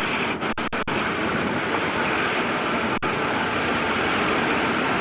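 Steady rumble and hiss of a moving vehicle heard from inside, engine and road noise with no clear rhythm; the sound drops out briefly a few times near the start.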